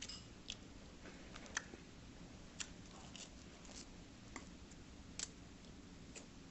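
A person chewing food quietly, with scattered light clicks of metal chopsticks.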